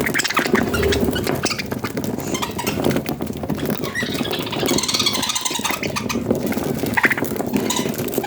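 Budgerigars chattering: a busy run of squeaks, scratchy clicks and short chirps.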